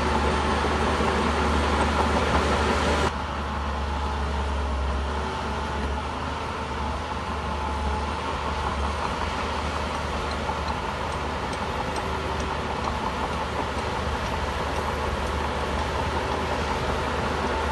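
Shantui bulldozer's diesel engine running steadily while the machine works, with a heavy low rumble. The sound drops abruptly in level about three seconds in, then carries on steadily.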